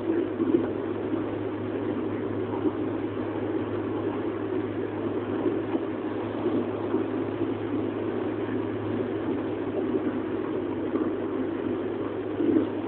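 Steady engine and road noise of a moving vehicle, with a constant low hum underneath and a few small knocks.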